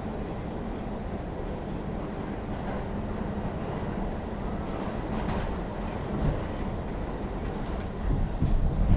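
New York City subway N train running, a steady rumble and rattle of wheels on track heard from inside the car, growing louder near the end.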